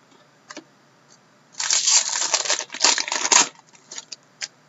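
A hockey card pack wrapper being torn open and crinkled: a dense crackling for about two seconds in the middle, with a few light, separate clicks before and after.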